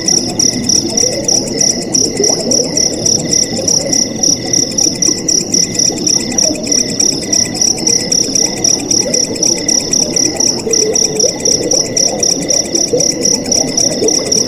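Crickets chirping in an even, pulsing rhythm of about three chirps a second, over the steady rush of flowing water.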